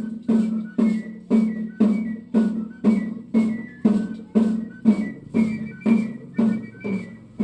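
Danza sonajera music: a drum beat and the dancers' sonaja rattles struck together in a steady pulse about twice a second, with a high whistle-like flute melody over it.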